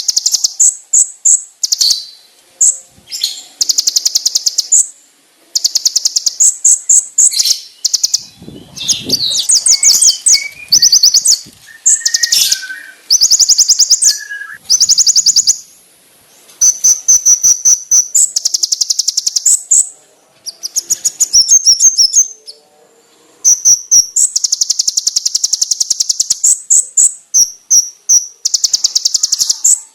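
Konin (kolibri ninja) sunbird song: loud, sharp, high-pitched rapid trills in bursts of a second or two, separated by short pauses, with some lower, varied twittering in the middle.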